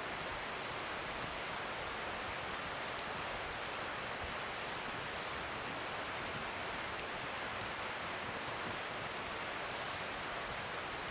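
Wood fire burning, a steady hiss with faint small crackles scattered through and one slightly louder pop near the end.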